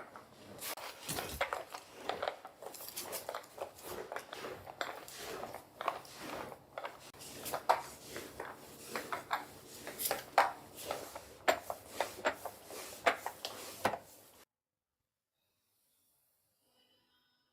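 Indoor housework sounds: a stream of light clicks, knocks and clinks of household objects being handled, over a rubbing sound. It cuts off abruptly about 14 seconds in.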